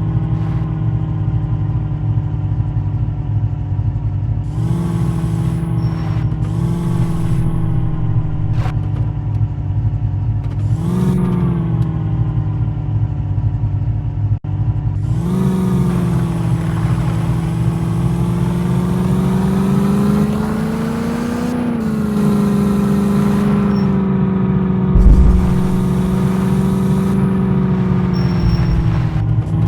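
Open-top off-road jeep engine running steadily under way, its pitch swelling up briefly several times as it is revved. There is a short low thump near the end.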